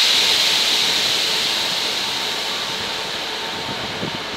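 A loud hiss of released air starts suddenly and slowly fades over the next few seconds, from a train's air brake system, over the rumble of a passing container freight train.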